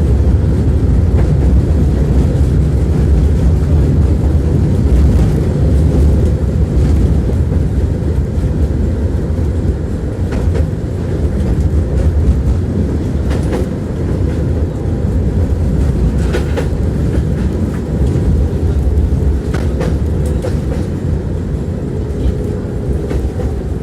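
Tram rolling along, its steel wheels rumbling on the rails, heard from inside the car, with a few scattered clacks over the rail joints.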